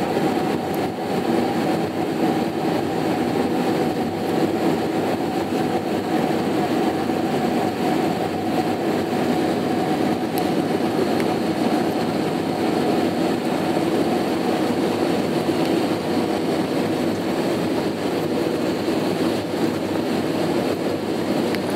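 Steady cabin noise inside an Airbus A319-132 in flight: the engines and rushing airflow make an even roar with a steady hum in it, no changes or sudden events.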